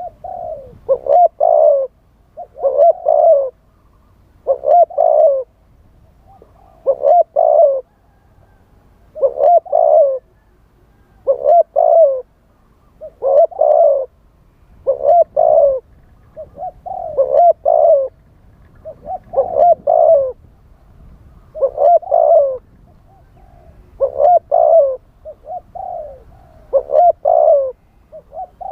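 Spotted dove cooing, a repeated phrase of a few low coo notes about every two seconds, used as a decoy call for wild doves.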